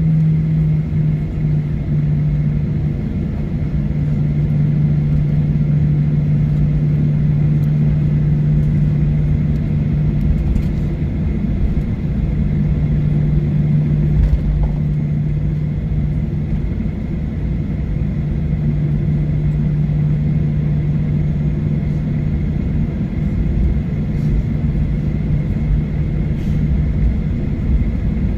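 Steady low drone inside the cabin of a Boeing 737-900ER with its engines running, a constant low hum over a rumble.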